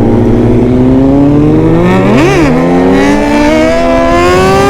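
Kawasaki ZX-10R sport bike's inline-four engine running under way, its note climbing steadily. About two seconds in there is a quick rev blip that shoots up and drops straight back, then the note rises again toward the end.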